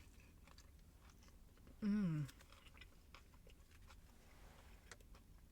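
Faint chewing of a crispy chicken sandwich with bacon, with soft wet mouth clicks and crunches. About two seconds in, a short hummed "mm" falls in pitch; it is the loudest sound.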